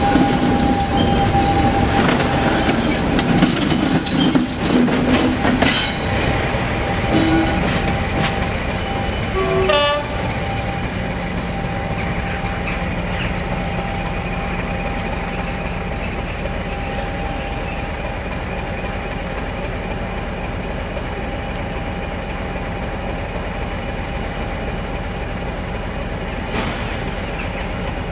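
Railway coach wheels clattering and knocking over the rail joints and points while running alongside a diesel locomotive. After a cut near ten seconds, a diesel locomotive's engine runs with a steady low drone as it draws slowly into the platform.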